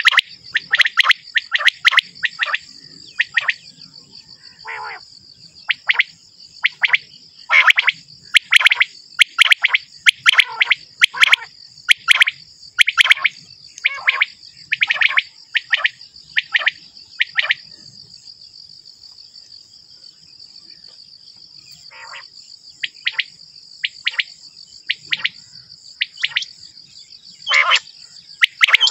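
Male common quail calling: short, sharp notes in quick runs, with a pause of a few seconds past the middle. A steady high-pitched trill runs underneath.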